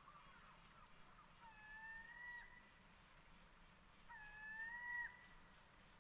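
A bird calling faintly, two long, level calls of about a second each, a couple of seconds apart.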